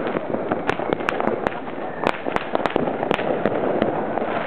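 Fireworks and firecrackers going off: more than a dozen sharp, irregular cracks and pops over a steady din of many more fireworks farther off.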